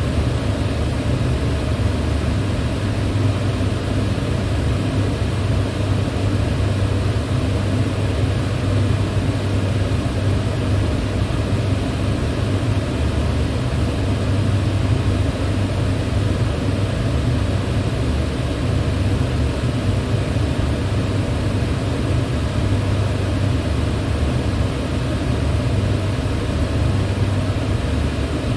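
Electric fan running steadily: an even whoosh of moving air over a low hum from the motor and blades, with no change in speed.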